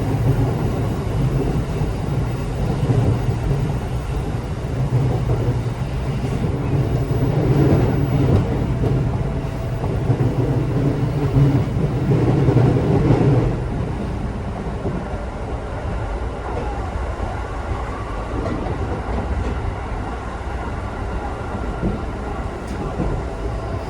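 Running noise of an electric local train heard from inside the carriage: a steady low rumble of wheels on rail and traction gear, louder for the first half and easing to a quieter rumble about thirteen seconds in.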